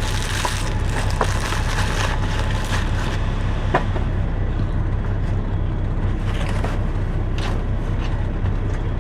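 Semi truck's diesel engine idling, a steady low hum heard inside the cab, with scattered clicks and crinkles of food and packaging being handled.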